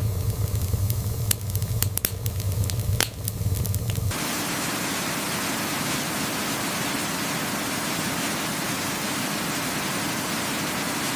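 Fire crackling with sharp pops over a low rumble. About four seconds in it cuts off suddenly to a steady, even static-like hiss with no crackles.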